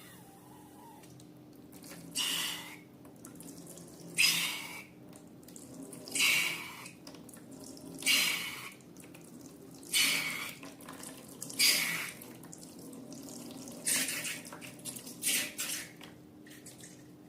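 Short wet splashing sounds of liquid slime ingredients spilling out, repeating about every two seconds, seven times, each starting sharply and fading within about half a second.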